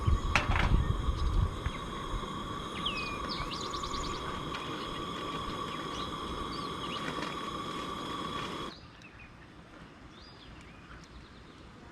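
Small birds chirping, with a quick trill near the middle, over a steady high hum and a low rumble in the first second or so. About nine seconds in, the hum and background cut off abruptly, leaving faint chirps.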